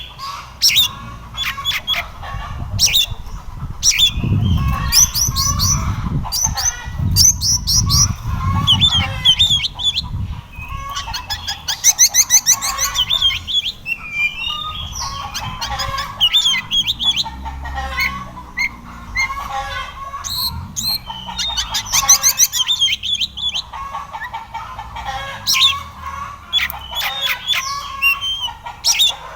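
Oriental magpie-robin (kacer) singing a fast, varied song of chirps and whistles, phrase after phrase, with a low rumble underneath for a few seconds early on.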